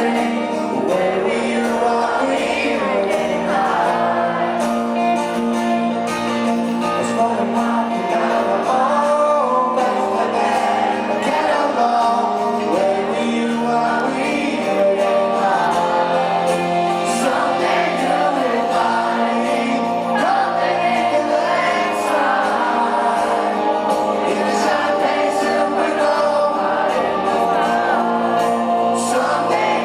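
Live rock band playing with a male lead vocal over sustained guitar and keyboard chords, at a steady volume.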